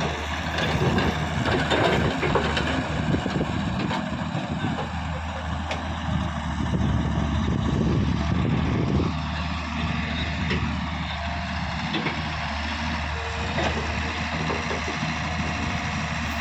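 Heavy diesel engine running steadily, a low even drone with occasional faint clicks and knocks over it.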